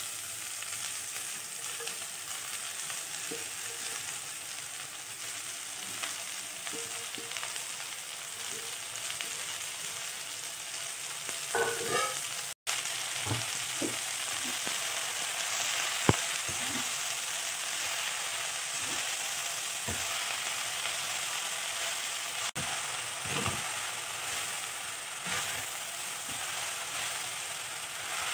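Chopped ivy gourd leaves and shallots frying in hot oil in a pot, a steady sizzling hiss. In the second half a spatula stirs them, knocking and scraping now and then against the pot.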